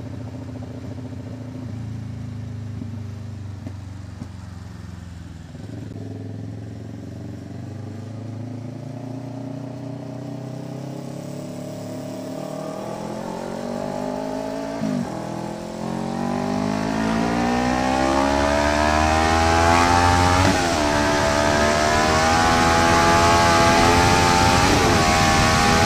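Kawasaki Ninja 650 parallel-twin engine with an SC Project exhaust, accelerating hard in one gear. Its pitch climbs steadily for about twenty seconds, with a few brief dips. The engine gets louder as it winds up, and rushing wind noise grows with the speed.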